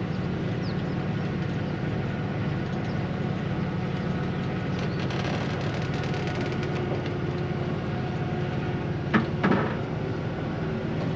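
A vehicle engine running steadily at an even pitch, with a couple of short knocks a little past nine seconds in.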